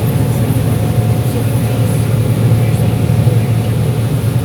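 John Deere 9760 STS combine running steadily under load while harvesting corn, heard from inside the cab as a constant low engine and machinery drone.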